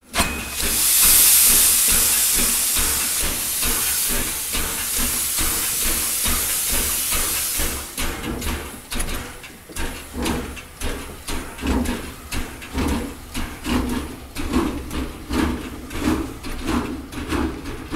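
Running noise of a moving Talgo sleeper train heard inside the carriage. A loud steady hiss lasts about eight seconds, then gives way to a rhythmic knocking, about one and a half beats a second, over a low rumble.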